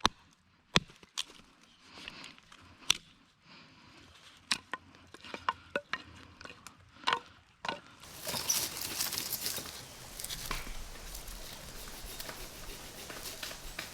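Handling of camping gear during tarp setup: scattered sharp clicks and knocks, then from about eight seconds in a steady rustling.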